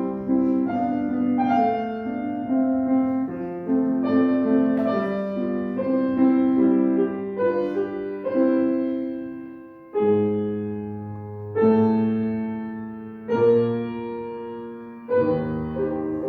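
Piano accompaniment playing a passage on its own, the wind soloist silent: melody over held chords, with several loud struck chords that die away slowly in the second half.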